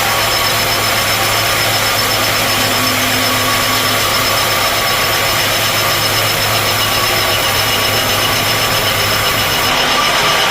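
Sawmill machinery running with a loud, steady drone and a few held tones; its sound shifts slightly near the end.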